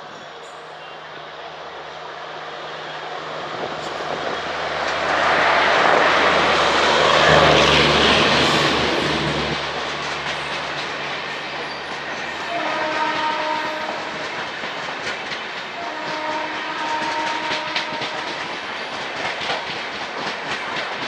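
Indian Railways train passing close by, its noise building to a peak about six to eight seconds in, then the locomotive horn sounding twice, each blast about two seconds long, over the clickety-clack of wheels on the rail joints.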